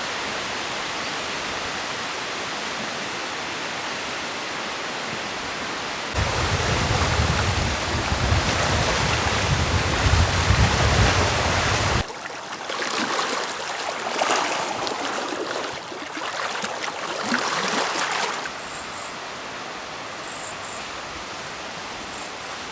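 Steady rushing outdoor noise of wind and water, in several blocks that change abruptly: a louder stretch with a deep low rumble from about six seconds in, uneven rushing with small crackles from about twelve seconds, then a quieter steady hiss with a few faint high chirps.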